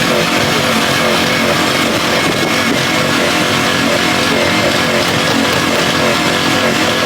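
Diesel pickup truck engine revved and held at full throttle, a steady loud drone that barely changes, with the engine still cold.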